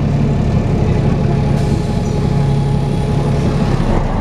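Dennis Trident 2 double-decker bus engine running steadily, heard on board. Over it runs the constant whooshing 'hoover' of the engine cooling fan.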